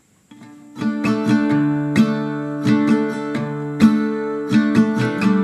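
Background music: strummed acoustic guitar chords, entering softly and filling out about a second in.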